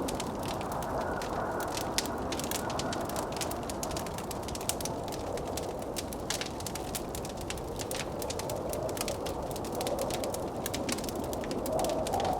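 Wood fire crackling with many sharp snaps, over the steady rush of blizzard wind; the wind swells into a louder howl near the end.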